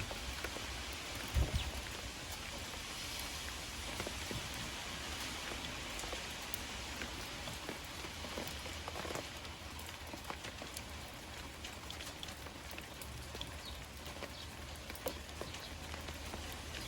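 Steady rain falling on surfaces, a continuous patter of small drop ticks. A single low thump sounds about a second and a half in.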